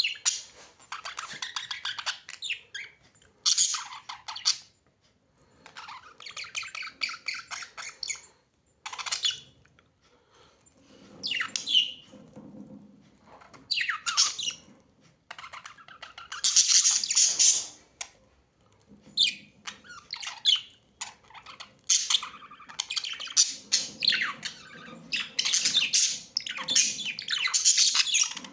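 Birds chirping and squawking in repeated bursts of rapid, high chatter with short pauses between, the loudest bursts about two-thirds of the way in and near the end.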